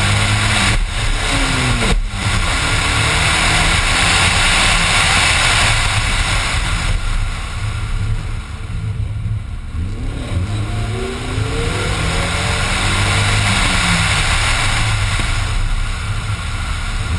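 Race car engine heard onboard, accelerating hard with revs repeatedly climbing and dropping at the gear changes. About eight seconds in the revs fall away for a couple of seconds as the car slows for a bale chicane, then it pulls hard again.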